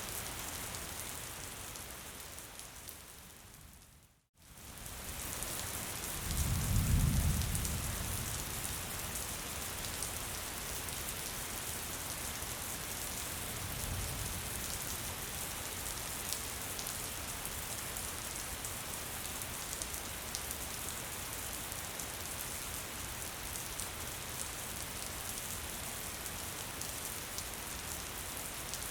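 Steady gentle rain falling. About four seconds in the rain fades out to silence and straight back in, and soon after a deep low rumble swells for about two seconds, the loudest moment, with a fainter one around fourteen seconds.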